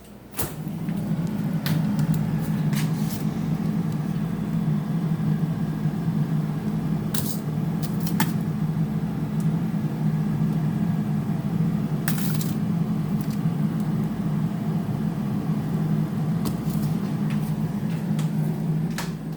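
A kitchen appliance's motor running with a steady low hum that starts just after the beginning and cuts off at the end, with a few light clicks and knocks over it.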